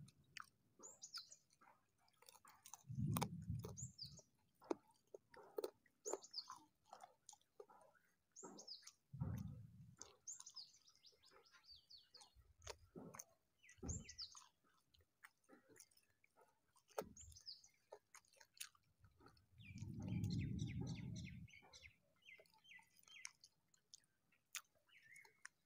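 Quiet close-up eating sounds of rice and curry eaten by hand: soft chewing and wet mouth clicks, with three longer low muffled bursts. Small birds chirp in the background, short high downward chirps throughout and a quick run of repeated notes about twenty seconds in.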